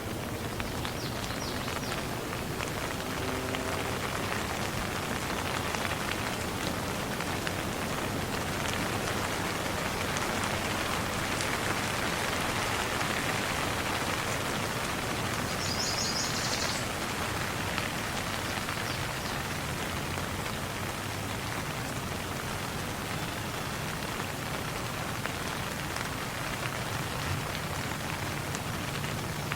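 Steady rain falling, a dense even hiss of many drops striking surfaces, holding level throughout.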